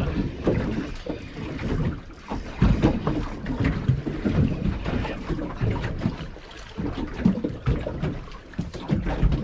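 Wind buffeting the microphone in uneven gusts, with water slapping against a small boat's hull.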